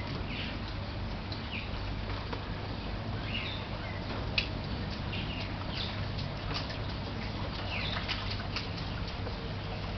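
Steady rain falling, with short high chirps heard over it every second or so and a single sharp click a little before halfway.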